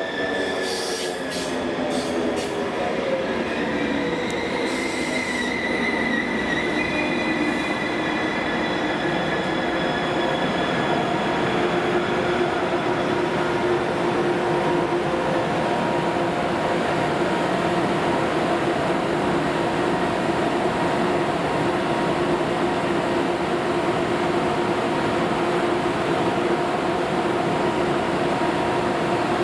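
ICE high-speed train running on the tracks through the station. Whining tones slide in pitch over the first few seconds, with a few sharp clicks, then settle into a loud, steady rush of wheel-on-rail noise under a steady whine.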